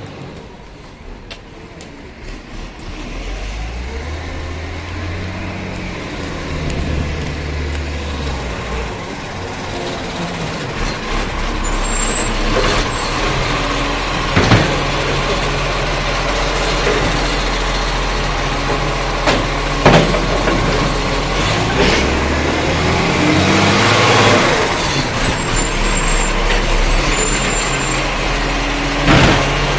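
Garbage truck engine running and growing steadily louder as it draws near, its pitch rising and falling, with a few sharp knocks and a burst of hiss a few seconds before the end.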